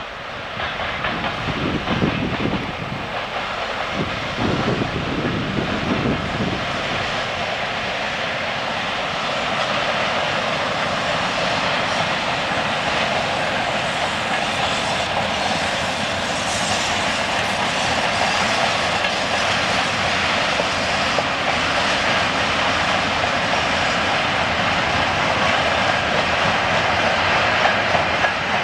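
Freight train hauled by a 2TE25Km twin-section diesel locomotive passing by: a steady rolling rumble of wheels and wagons on the rails. It swells about a second in, with deeper rumbles in the first six seconds or so.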